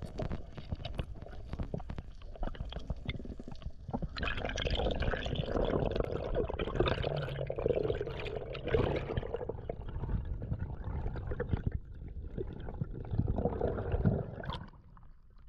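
Water gurgling and sloshing close to the camera, with many small clicks and knocks; loudest for a few seconds in the middle.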